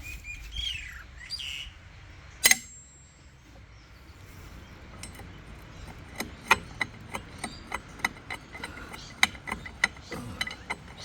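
Metal-on-metal work on the excavator sprocket: one sharp ringing metal strike about two and a half seconds in, then from about halfway a run of irregular light taps and clinks, a few a second. A bird chirps briefly near the start.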